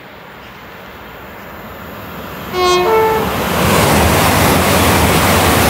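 An approaching passenger train sounds a short two-note horn, a lower note then a higher one, then passes loudly at speed.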